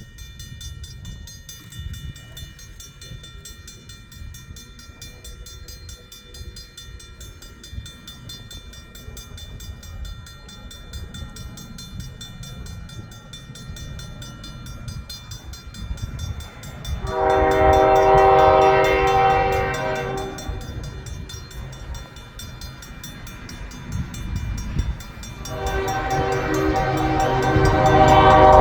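Approaching freight train led by a GE ES44DC diesel locomotive: a low rumble builds steadily, then the locomotive horn sounds a long blast about two-thirds of the way in. A second loud blast starts near the end.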